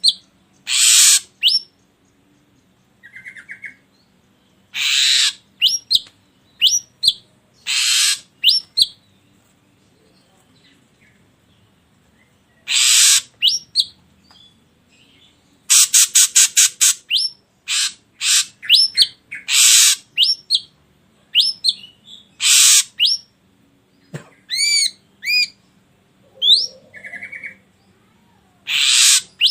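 Ashy drongo calling: harsh rasping notes about half a second long alternate with short, curving whistled notes. About halfway through comes a quick run of short harsh notes, and there is a few-second pause before it.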